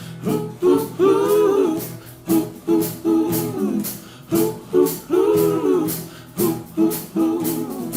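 A live band playing a song's intro: guitar strummed in a steady rhythm under a melody line that rises and falls in phrases.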